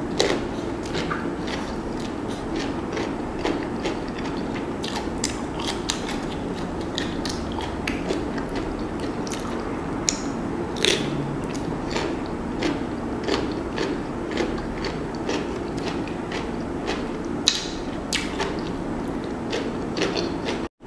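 Crunching and chewing of fresh cucumber slices, heard close up as many short crisp clicks and snaps.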